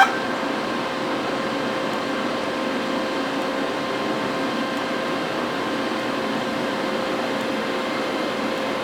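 TIG welding stainless steel: a steady hiss and hum from the welder and arc, with a short sharp crackle right at the start.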